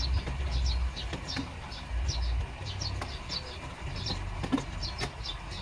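Small birds chirping over and over, short high chirps a few times a second, over a low rumble with a few faint clicks.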